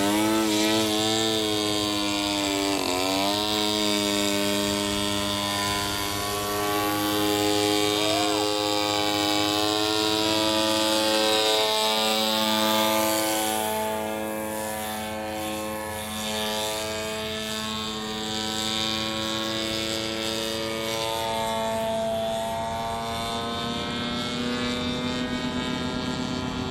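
RC model airplane's small fuel-burning engine and propeller running in flight, a steady drone whose pitch wavers and dips briefly as the plane passes, growing a little fainter about halfway through.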